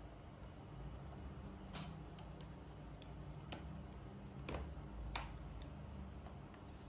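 Small hand tools and phone parts handled during a phone battery replacement: scattered light clicks and ticks, four of them sharper, over a low steady hum.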